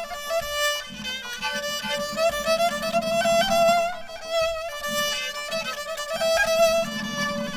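Background music: a solo violin playing a slow melody with vibrato, over a low accompaniment.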